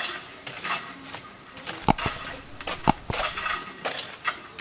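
A stick tamping and poking wet cement around a fence post in its hole, making irregular scraping and clicking, with two sharper knocks about two and three seconds in.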